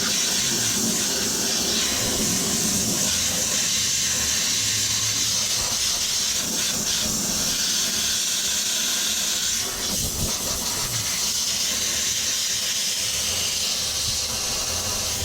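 Compressed nitrogen blowing out of a nozzle with a steady, loud hiss, blasting loose debris off a plugged HVAC condenser coil. A brief knock comes about ten seconds in.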